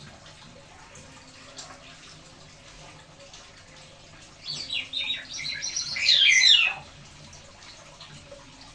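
A starling singing a burst of quick, jumbled high notes for about two seconds, starting around four and a half seconds in and loudest near its end. A faint steady hiss runs underneath.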